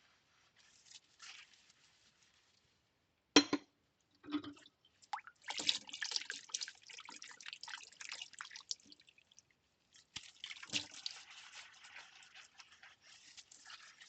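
Ceramic bowls being washed by hand in a sink: a sharp clink of ceramic about three seconds in, then two stretches of water splashing and sloshing.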